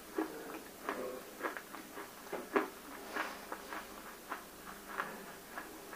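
Close-miked chewing of water-soaked roasted clay: soft, wet crunches and mouth clicks at an irregular pace of about two a second.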